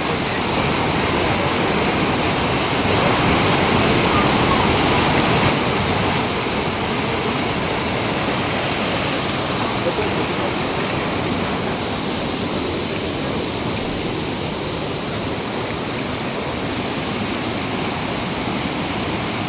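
Waterfall water pouring down in a steady, even rush.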